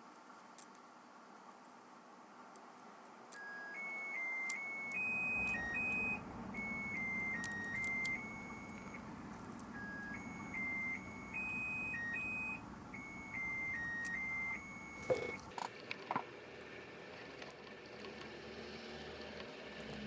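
A simple electronic melody of single high beeping notes, one short tune played twice, over a low steady hum, then a few small clicks.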